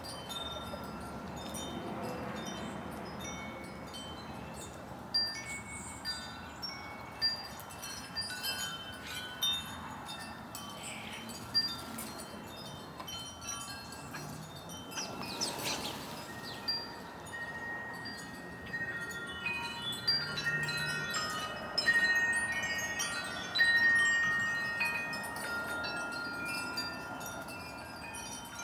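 Wind chimes ringing at irregular intervals, many overlapping notes of different pitches, with some louder strikes and longer ringing notes in the second half.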